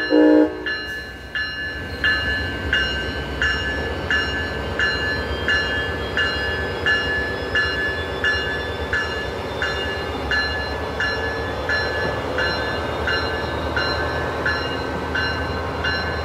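A train horn blast cuts off just after the start; then a warning bell rings steadily, about three strikes every two seconds, over the low rumble of a commuter train.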